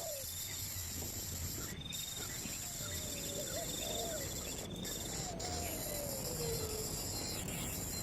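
Insects chirring steadily, with a high continuous drone and repeated buzzy trills, joined by a few low wavering whistled calls, one sliding slowly downward.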